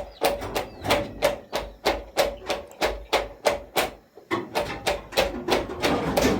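Steady hammering, about three blows a second, each with a short ringing; in the second half the blows run closer together and blur.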